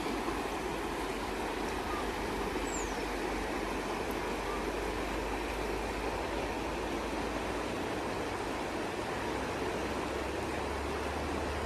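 River water rushing steadily over rocks in a continuous, even flow.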